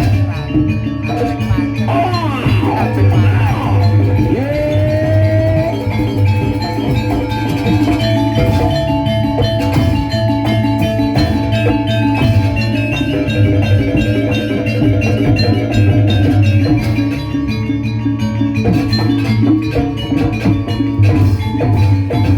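Gamelan-style dance accompaniment: metal percussion tones over a steady drum beat, with a sliding melodic line that rises and falls.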